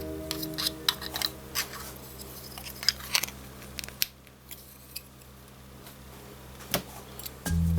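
Hands unboxing a model airliner: quick crackles and clicks of packaging being handled and opened, thinning out after a few seconds, with one sharp click near the end. Background music fades in the first second and comes back in just before the end.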